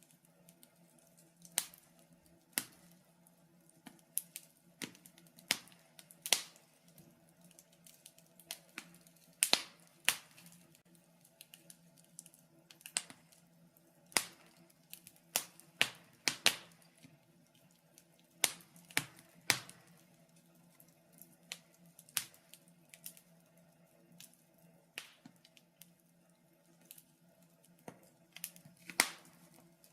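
Wood fire in a fireplace crackling, with irregular sharp pops and snaps every second or so over a faint steady hum.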